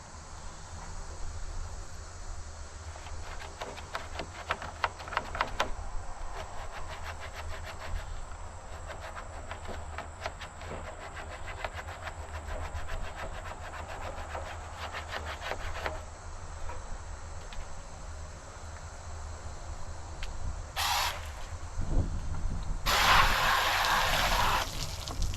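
Scrubbing and scraping on the plastic hull of an RC boat, in quick runs of short strokes. Near the end come a brief hiss and then a louder, longer hiss.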